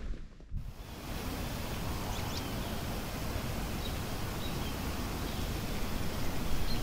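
Steady outdoor rustle of wind through trees, with a few faint bird chirps.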